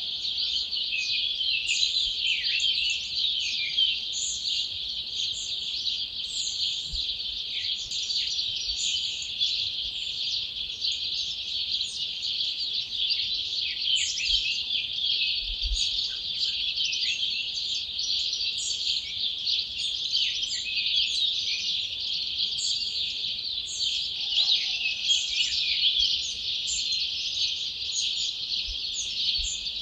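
Dawn chorus: many wild songbirds singing at once, a dense, continuous overlap of high chirps, trills and whistled notes.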